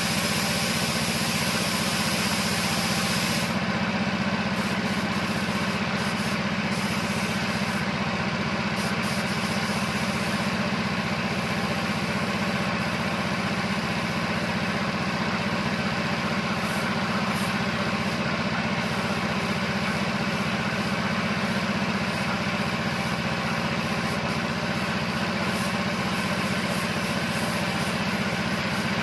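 Paint-shop air compressor running steadily, with the hiss of a spray gun that cuts out about three and a half seconds in and returns in short spurts.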